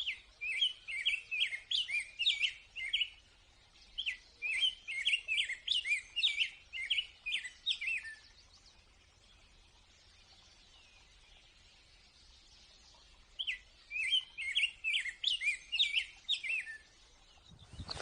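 A songbird singing in three bouts of quick, high chirping notes, two of them in the first eight seconds and a third about thirteen seconds in, with a quiet pause between.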